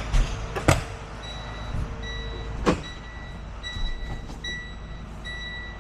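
A few sharp knocks and door-like clunks, then a vehicle's electronic warning beeper sounding steadily, about two to three high beeps a second.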